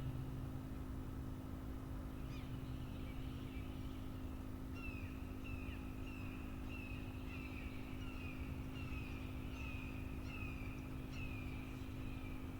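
A hawk calling a long series of short, down-slurred cries, about one and a half a second, starting about five seconds in, over a steady low hum.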